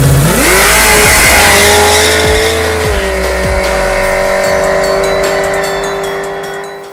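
A car at high revs: the pitch climbs quickly in the first second, then holds steady for several seconds before fading near the end, with background music underneath.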